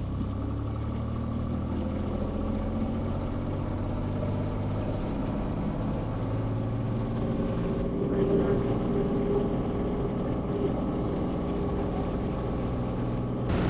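Small airplane's engine and propeller running steadily at full power during the takeoff roll and climb-out, a steady droning hum with a slight change in tone about two-thirds of the way through.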